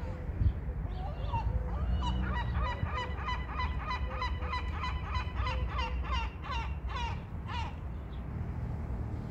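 Birds calling: a fast run of short, high repeated calls, several a second, from about a second and a half in until near the end, over a slower, lower repeated call.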